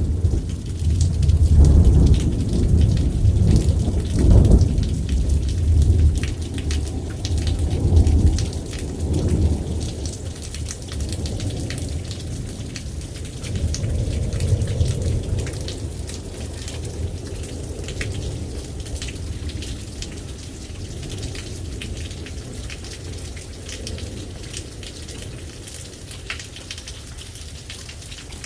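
Thunder rumbling through a steady rain, the rumble swelling several times in the first ten seconds and then dying away, leaving the rain falling with the fine ticks of drops.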